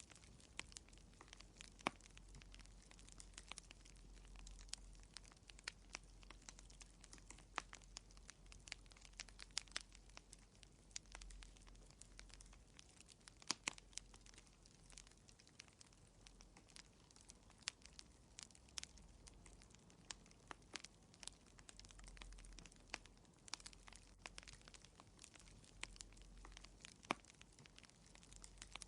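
Fire crackling in a fireplace: many irregular sharp pops and snaps over a faint low rumble.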